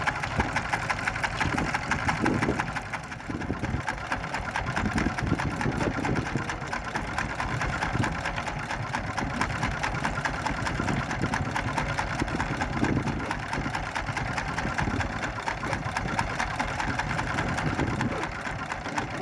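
Small fishing boat's engine running steadily with a fast, even chatter.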